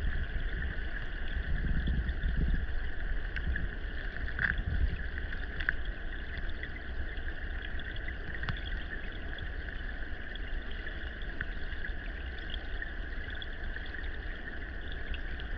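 Steady rush of flowing stream water with a deep rumble and scattered faint clicks, a little louder in the first few seconds.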